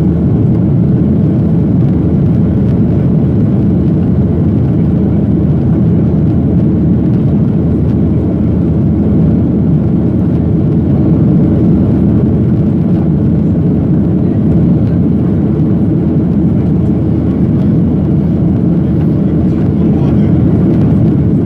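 Steady, loud rumble of a Boeing 737-800's CFM56 turbofan engines and airflow heard from inside the passenger cabin.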